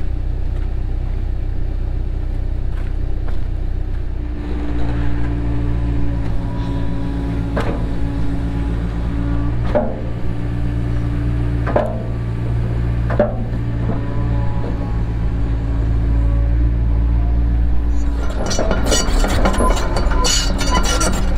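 Cat 307 excavator's diesel engine and hydraulics running, the engine note rising under load about four seconds in and holding steady. Sharp knocks come every couple of seconds, and a dense rattling clatter starts near the end.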